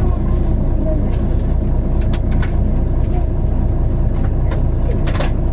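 A 2001 Hino Melpha 7 midibus running along: a steady engine drone and road rumble, with scattered short rattles and clicks.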